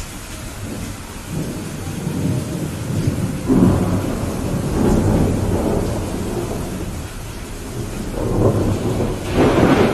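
Thunderstorm: steady rain with rolling thunder that swells about three seconds in and again near the end.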